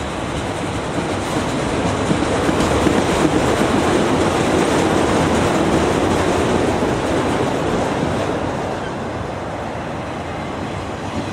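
Train rolling by on the rails: a steady rumble of wheels on track with no horn, growing louder over the first couple of seconds and easing off after about eight seconds.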